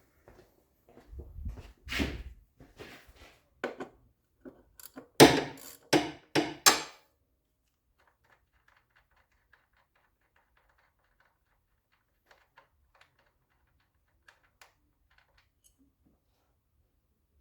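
A run of knocks and clunks, the loudest three close together about five to seven seconds in, then near quiet with a few faint ticks.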